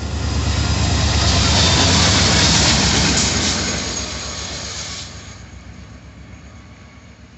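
Florida East Coast Railway freight train passing at speed. It swells to its loudest about two seconds in, then fades after about five seconds as it moves away.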